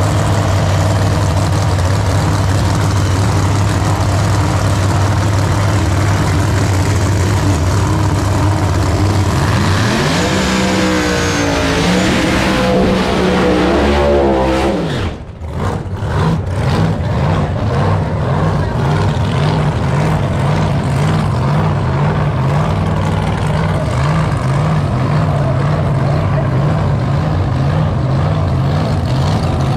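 A drag race car's engine running loud and steady, then revved up and down a couple of times about ten seconds in. It drops back briefly and settles into a lumpy, choppy idle.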